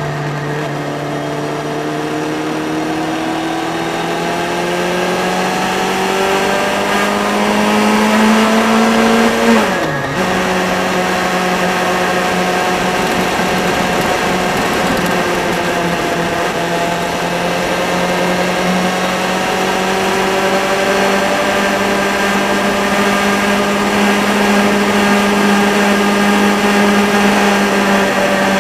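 Motorcycle engine pulling along the road: the revs climb for about nine seconds, fall sharply at an upshift about ten seconds in, then hold steady at cruising speed. Wind and road noise run underneath.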